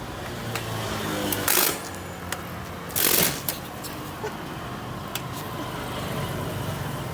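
Bicycle drivetrain running with scattered light clicks and two loud clunks, about one and a half and three seconds in: a new chain jumping on the teeth of a worn old cassette.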